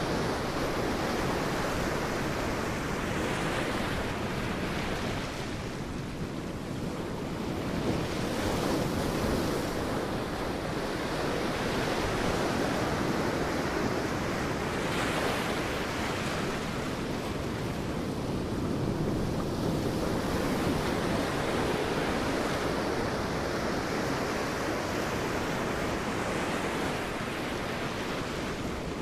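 Sea waves breaking on a beach: a continuous wash of surf that swells as each wave breaks, every five or six seconds.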